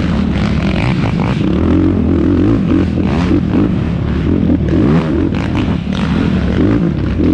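Yamaha YFZ450R quad's single-cylinder four-stroke engine revving up and down repeatedly under racing load, with short clattering knocks as the quad runs over rough ground.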